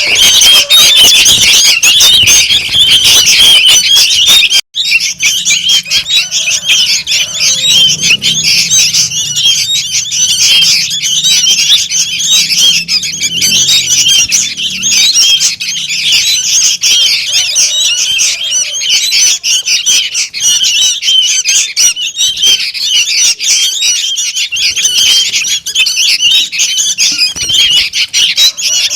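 A noisy chorus of young sooty-headed bulbuls calling, dense overlapping high chirps, as used to lure bulbuls. The sound cuts out for an instant about five seconds in.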